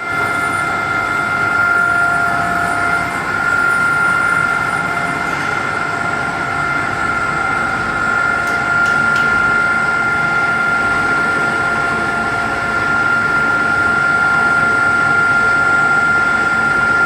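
Biogas plant cutter running, a steady loud machine noise with a constant high whine riding over it: an odd sound from the cutter.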